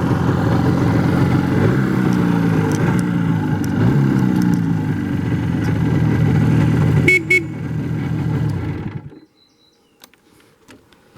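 IZh Jupiter-4 two-cylinder two-stroke motorcycle engine under way, its pitch rising again and again as it accelerates, running on both cylinders without misfiring. A brief high-pitched sound comes about seven seconds in, and the engine sound cuts off about nine seconds in.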